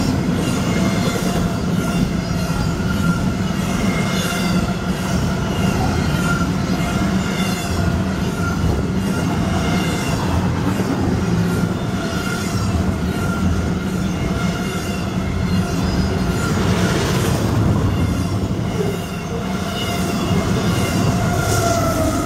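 Double-stack intermodal freight train passing close by: steel wheels rolling and clacking over the rail joints under loaded well cars, with a wavering high squeal from the wheels against the rails.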